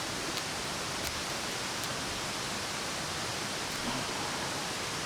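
Steady rushing outdoor noise, with a few faint ticks in the first couple of seconds.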